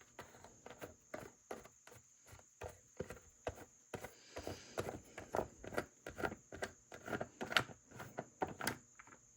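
Irregular run of light knocks and clicks, a few a second, louder in the middle and stopping shortly before the end.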